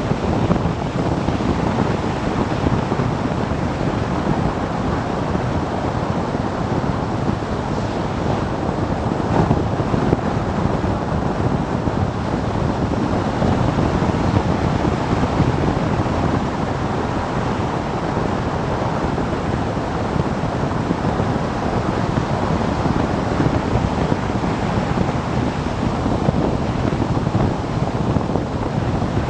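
Steady wind noise buffeting the microphone of a camera on a moving motorcycle, with the bike's running and road noise mixed in.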